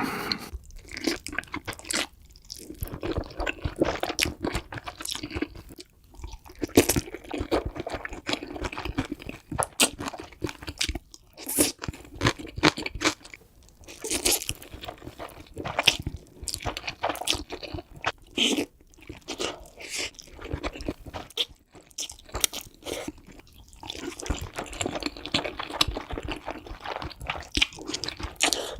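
A person chewing crunchy food close to the microphone, with dense, irregular crackling crunches and brief pauses between bites.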